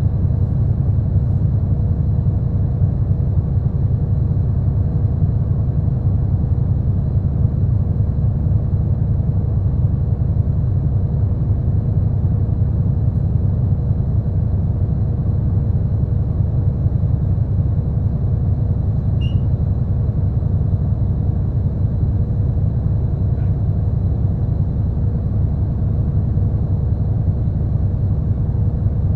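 Steady low rumble inside a route bus's passenger cabin: engine and road noise as the bus runs, with no change in pitch or level.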